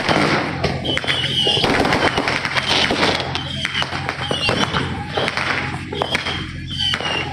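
New Year's fireworks and firecrackers going off all around: a dense, continuous crackle of pops and bangs, with short wavering high whistles recurring about every second.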